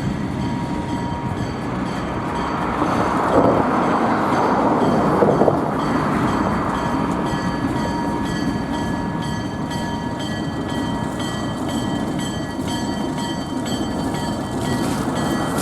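Passenger train led by an ALCO RS-1 diesel locomotive rolling across a road crossing, its wheels clicking over the rail joints, loudest about three to five seconds in. A fast, even ringing runs over it.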